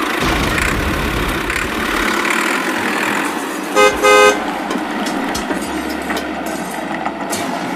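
An engine running steadily, with two short horn toots close together about four seconds in.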